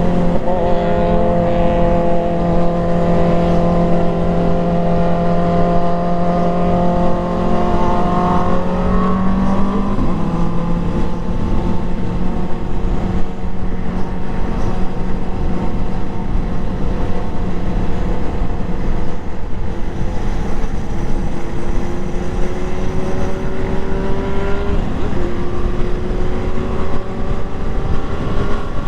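Motorcycle engine running steadily under way, over a constant rushing noise. The engine note rises a little, drops sharply about ten seconds in, then climbs slowly again and dips briefly near the end.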